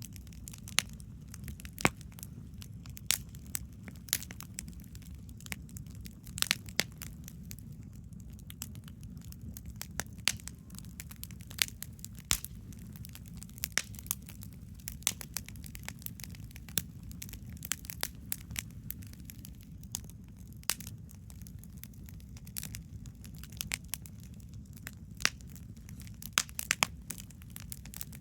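Wood campfire burning, with frequent irregular sharp pops and crackles of the burning wood over a steady low rumble.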